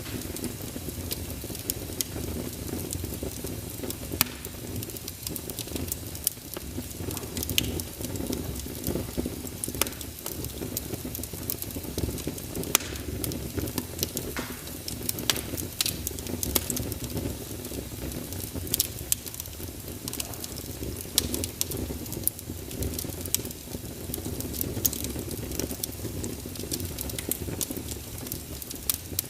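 Wood fire burning in a fireplace: a steady low rush of flame with irregular sharp crackles and pops from the burning logs.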